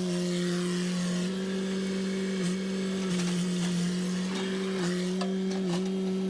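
An engine running at a steady, fairly high pitch, dipping briefly a few times as if loaded, with scattered sharp cracks and snaps over it.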